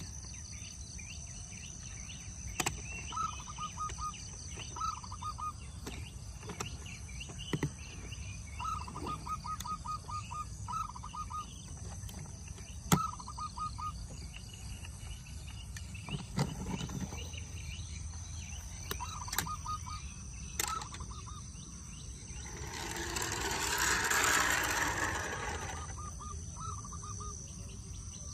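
Outdoor ambience: a bird repeats short, rapid chirping phrases over a steady high-pitched whine, with scattered sharp clicks and knocks. About 23 s in, a rushing noise swells and fades over some three seconds.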